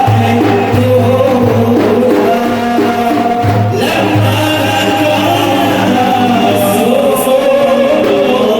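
A group singing an Islamic devotional praise song (madih) to the Prophet, with a steady low accompaniment underneath, likely frame drums.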